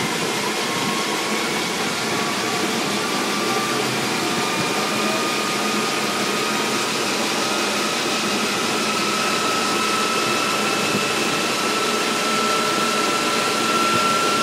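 1988 Honda CRX Si's 1.6-litre four-cylinder running through a smog test with its front wheels on dynamometer rollers: a steady rushing noise with a faint whine that slowly rises in pitch.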